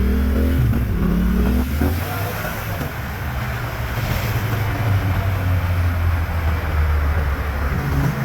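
Yamaha MT-07's parallel-twin engine through a LeoVince underbody exhaust, on the move: the pitch rises and falls with the throttle in the first couple of seconds, eases off briefly, then holds a steady low drone.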